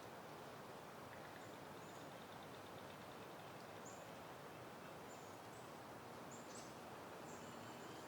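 Soft, steady wind, a faint even hiss, with a few short, faint high bird chirps scattered through it.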